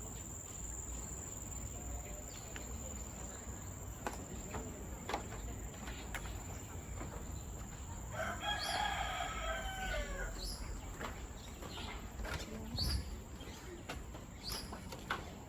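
A rooster crowing once, a single call of about two seconds near the middle, over a steady high-pitched insect drone, with a few short bird chirps after it.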